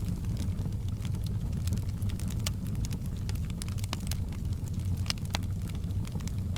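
Wood fire in a fireplace crackling: scattered sharp pops and snaps, irregular and several a second, over a steady low noise from the burning.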